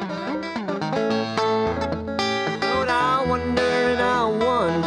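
Live blues band playing an instrumental fill between sung lines: plucked guitar over a bass line, with a lead line bending notes up and down in the second half.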